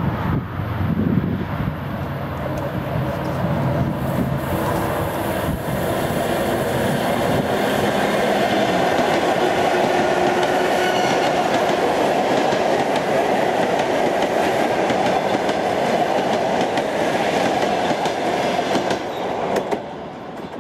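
Electric multiple unit suburban train running past along the platform track, its wheels clattering rhythmically over the rail joints. The clatter cuts away sharply near the end as the train clears.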